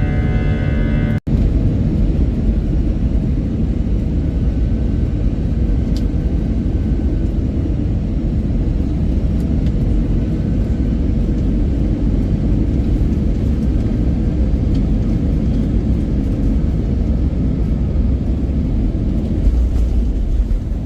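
Steady low rumble of an airliner heard from inside the passenger cabin, engine and airflow noise with no clear change in pitch. Music-like tones at the start cut off abruptly about a second in.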